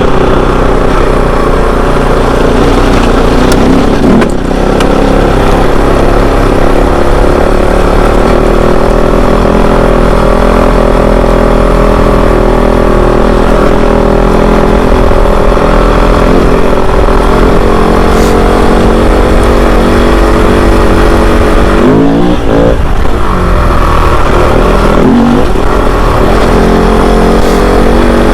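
Kove 450 Rally's single-cylinder engine running steadily under way, with short throttle changes about four seconds in and again near the end.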